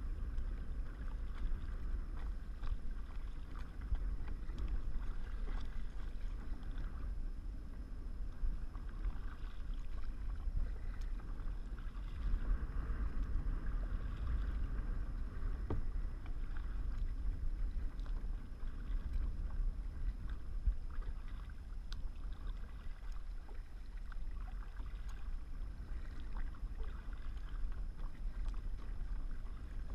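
Kayak on the water: paddle strokes and water splashing and lapping against the hull, with a steady low rumble underneath.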